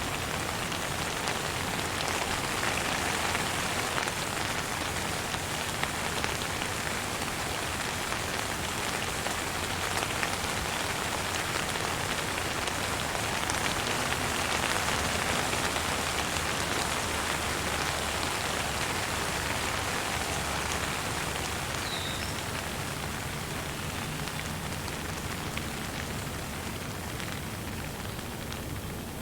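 Steady rain falling, an even patter with no pauses. A single short high bird chirp sounds about three-quarters of the way through.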